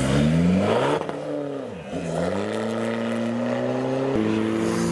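Sports car engine accelerating hard as the car pulls away: the pitch climbs, dips about two seconds in, climbs again, then drops suddenly at an upshift about four seconds in.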